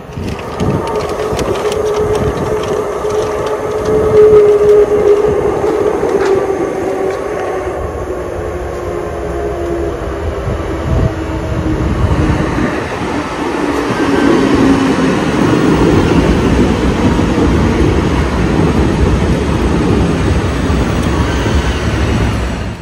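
Electric train running through an underground station, with rumbling wheel and track noise and a motor whine whose tones slide slowly down in pitch.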